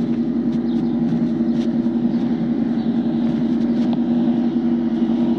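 Steady low hum of an idling vehicle engine, holding one pitch, with faint short chirps high above it.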